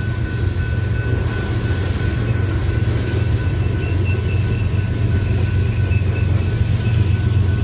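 Train passing with a steady low rumble.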